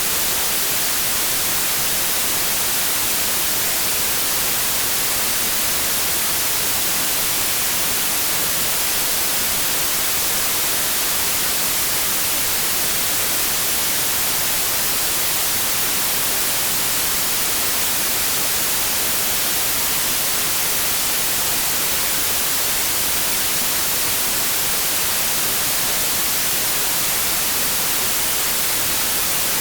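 Synthetic white noise: a steady, even hiss spread across all pitches, brightest in the highs, with no change or break.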